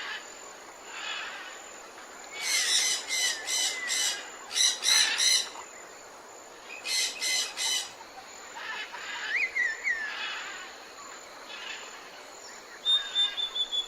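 Tropical birds calling: several loud bursts of chattering calls, then a few short whistles, over a steady background hiss.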